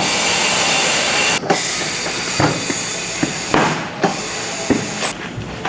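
Compressed air hissing loudly from an air line, cutting out for a moment about one and a half seconds in, then going on a little quieter, with a few short metallic knocks under it.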